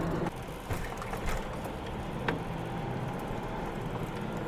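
Steady road and engine noise inside a moving car, with a few faint, irregular clicks.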